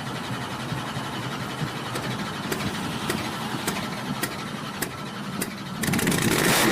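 An engine running steadily at idle, with a regular tick a little under twice a second. Near the end it gets louder.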